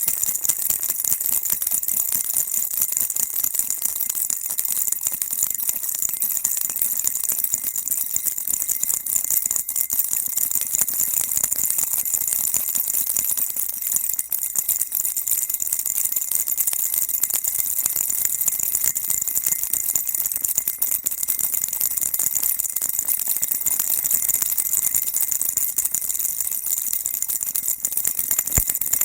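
Baby rattle shaken continuously in a steady, dense, unbroken jingling rattle with no pauses, bright and high-pitched.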